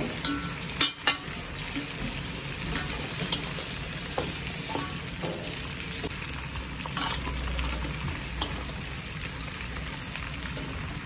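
Chicken pieces sizzling and frying in an aluminium pot as a slotted metal spoon stirs them, with a steady hiss. The spoon knocks against the pot a few times, twice close together about a second in.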